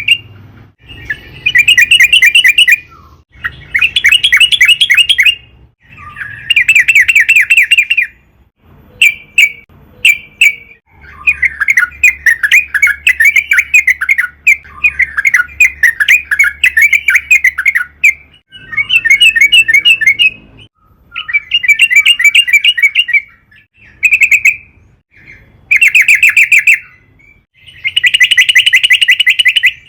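Yellow-vented bulbul (trucukan) singing loud, rapid chattering phrases. The song comes in repeated bursts of a second or two each, with short pauses between them and one longer run of song in the middle.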